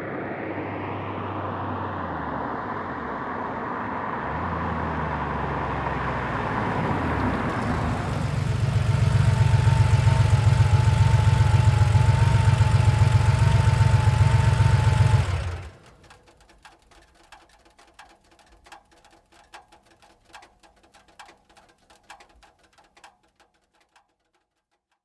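1990 Porsche 911's air-cooled flat-six approaching, its engine note sliding as it slows and pulls up, then idling steadily and loudly from about 8 seconds in. The engine is shut off abruptly a little after halfway, followed by a scatter of faint clicks.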